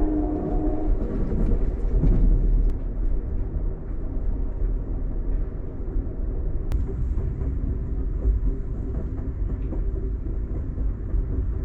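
Passenger train running, a steady low rumble throughout; a pitched tone fades out in the first second.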